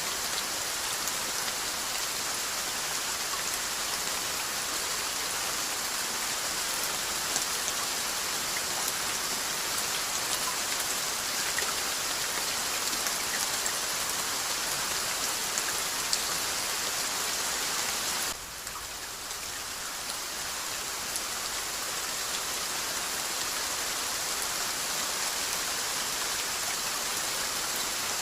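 Steady rainfall: an even hiss of rain with scattered fine drop ticks. About eighteen seconds in it turns suddenly quieter, then swells back to full over a few seconds.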